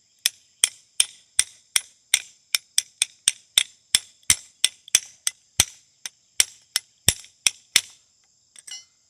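Hammer driving a metal pick through a clogged nail hole in a pony horseshoe, punching out packed dirt. About three sharp, ringing metal strikes a second for nearly eight seconds, then a light clink. Crickets chirp steadily behind.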